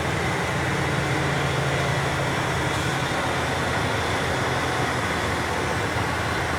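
Boom lift's engine running steadily with a low, even hum while the basket is being maneuvered.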